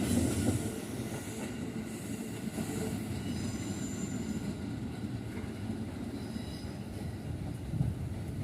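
A long train running over a level crossing. Its rumble drops in the first second and then goes on steadily, with a faint high wheel squeal about three to four seconds in.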